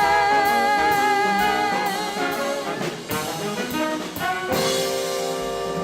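Swing band horn section of trumpet, trombone and saxophones, backed by drums and upright bass, plays the closing phrase of a ballad. It ends on a held final chord about four and a half seconds in.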